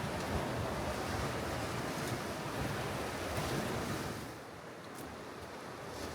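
Wind and surf rushing, with gusts buffeting the microphone; the rush eases about four seconds in.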